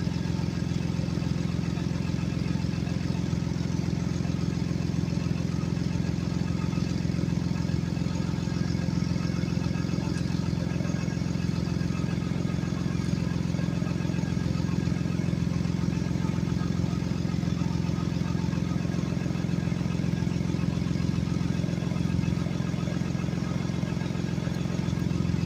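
2016 Ford Explorer engine idling steadily, the running sound a customer reports as an exhaust leak.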